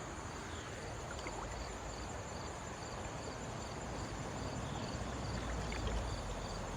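Flowing river water with an insect chirping in a steady rhythm, about two short chirps a second.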